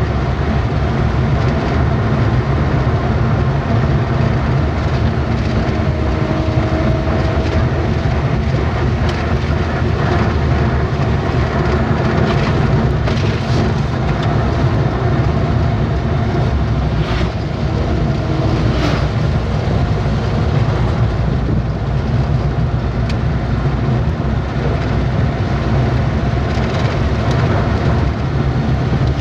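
Truck on the move: a steady low engine and road rumble, with a few brief knocks and rattles partway through.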